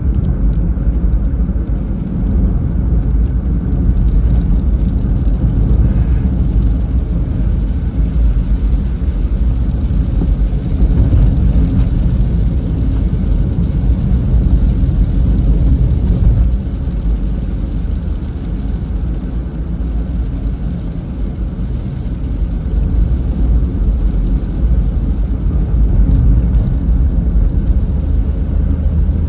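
Car driving on a wet road in the rain: a steady low rumble of tyres and engine with a fainter hiss above it, easing slightly for a few seconds past the middle.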